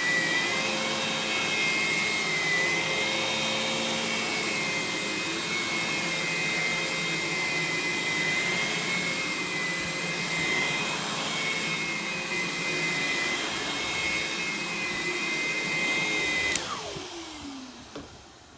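Aerus Lux Guardian upright vacuum, a dual-motor machine with separate suction and brush roll motors, running steadily with a high, slightly wavering whine. About 16.5 seconds in it is switched off and the motors spin down, the pitch falling as it fades.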